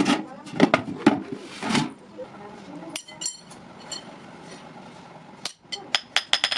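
Metal knocks and clinks from blacksmith work on iron rods: a run of knocks, a few ringing clinks about halfway, then a quick series of sharp taps near the end.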